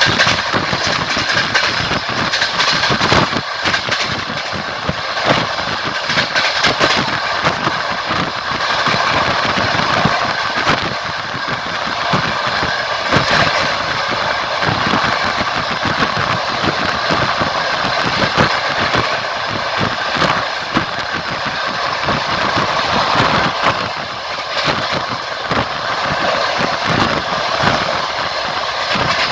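Passenger train running, heard from a carriage window: continuous rolling and rushing noise with frequent irregular clicks of the wheels over the rails.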